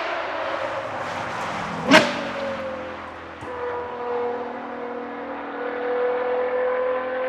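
Ferrari Purosangue's V12 running through a Novitec race exhaust with flap regulation: a steady engine note with a sharp, loud crack about two seconds in, after which the pitch drops a little and then slowly climbs again.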